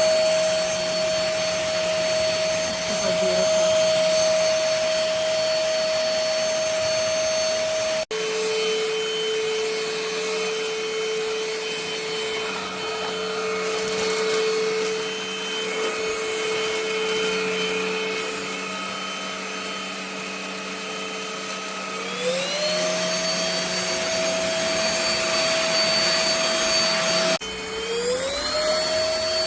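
SVHT V15 cordless stick vacuum's motor running with a steady whine. About eight seconds in the pitch drops suddenly to a lower speed, and near the end the motor spins up with a rising whine, twice in quick succession.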